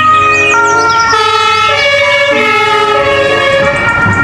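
Toy ambulance's electronic siren sound effect: a loud run of steady tones stepping up and down in pitch every half second or so.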